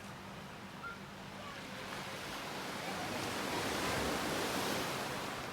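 Gentle Black Sea waves washing in on a calm day. The rush of water swells to a peak about four seconds in and then ebbs, with a little wind on the microphone.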